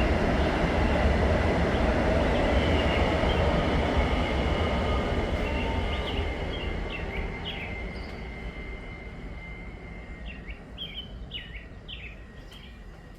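A train rumbling past and slowly fading away, with a steady high tone over the rumble. Birds chirp as it dies down.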